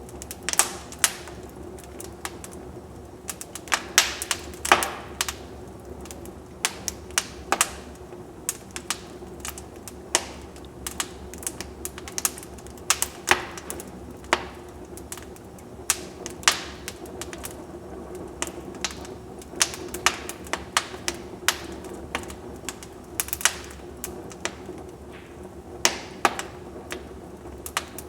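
Wood fire in a fireplace crackling: irregular sharp snaps and pops, sometimes several in quick succession, over a steady low background.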